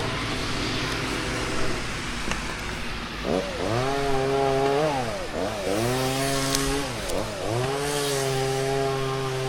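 Two-stroke chainsaw running steadily at a lower speed, then revved hard three times from about a third of the way in, each rev held for a second or two before the engine drops back.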